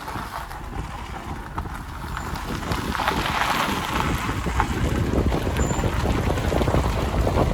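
Wind buffeting the microphone over the rumble of a car driving, a loud, gusty rushing that swells slightly toward the end.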